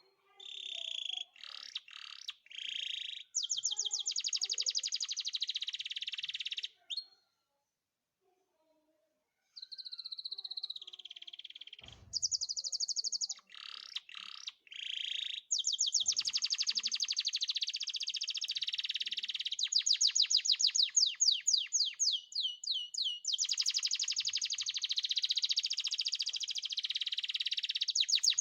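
A canary singing: long phrases of rapidly repeated high notes in rolling trills, mixed with short chirps. The song stops for a couple of seconds about a quarter of the way in, then runs on.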